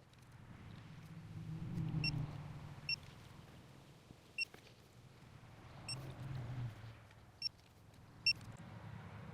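Digital torque wrench beeping briefly six times as the valve body bolts are brought to 9 newton-metres, each beep a short high tone. A low hum swells twice beneath the beeps.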